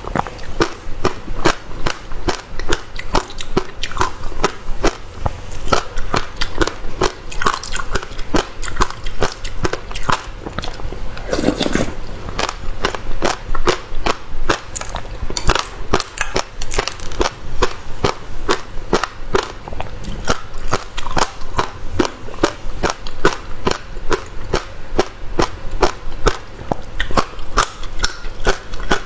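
Close-miked chewing of passion fruit, the seeds cracking between the teeth in sharp, crisp clicks several times a second, with one longer, lower sound near the middle.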